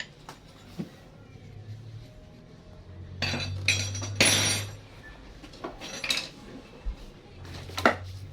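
Metal tools and parts clinking and rattling during repair work, with a louder stretch of rattling and scraping about three to five seconds in and a few sharp clicks after it.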